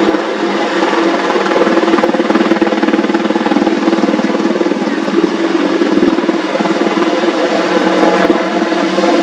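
AH-64E Apache attack helicopter running loudly, its rotor and turbine noise holding steady.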